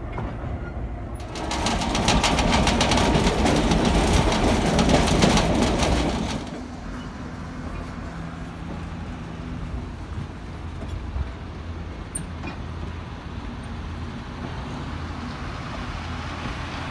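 EMD FP7 diesel locomotive passing close by, loud for about five seconds with a high whine. Then stainless passenger cars roll slowly past, their wheels running on the rails with a steady low sound and a few light clicks.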